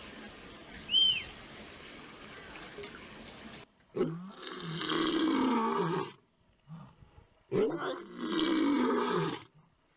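A large wild animal roaring twice, each roar about two seconds long with a short gap between. Before the roars there are a few seconds of faint background noise with one short chirp.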